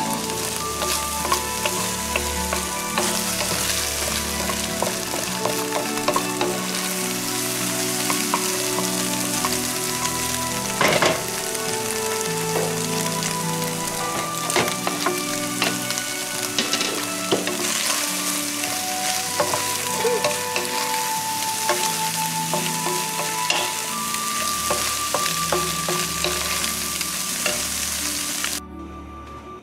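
Chicken and scrambled egg sizzling in a hot nonstick wok as they are stir-fried, with a wooden spatula knocking and scraping against the pan. The sizzle cuts off suddenly near the end.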